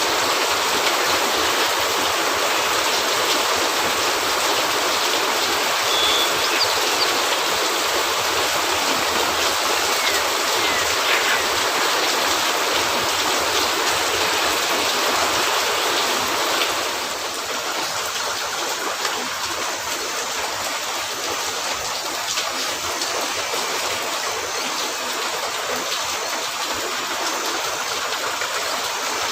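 Steady rain falling on a cabin roof, an even wash of noise with a few faint scattered crackles. It turns slightly quieter about two-thirds of the way through.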